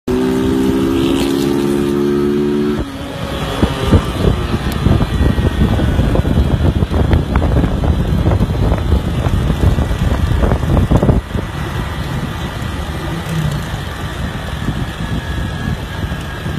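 Motorcycle engine running: a steady, even note for about three seconds, then a rougher, fluctuating sound with sharp spikes to the end.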